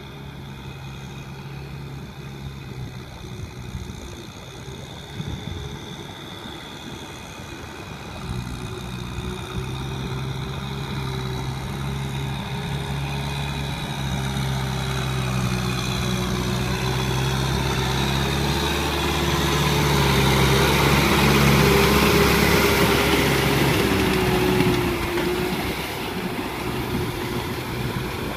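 Kubota M6040SU tractor's diesel engine running at a steady pitch as the tractor drives through deep mud. It grows louder as it comes closer, is loudest about three quarters of the way through, then eases off slightly near the end.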